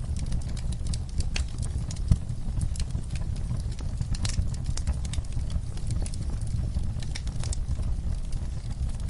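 Wood fire crackling in a fireplace: irregular sharp pops and snaps over a low, steady rumble of the flames, with one louder pop about two seconds in.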